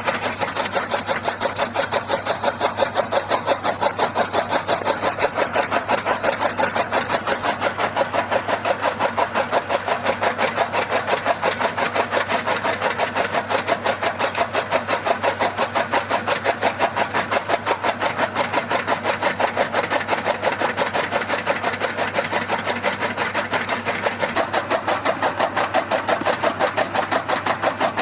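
Miniature DIY model tractor running steadily with a rapid, even chugging beat like a small tractor engine.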